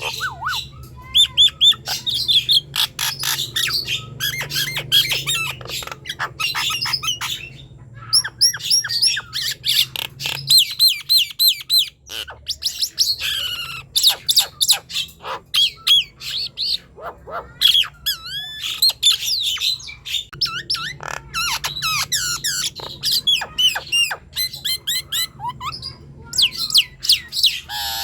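Nias hill myna singing in full voice, a fast run of loud whistles, chirps and harsh squawks with quick rising and falling notes, broken by a few short pauses. A faint steady low hum runs underneath.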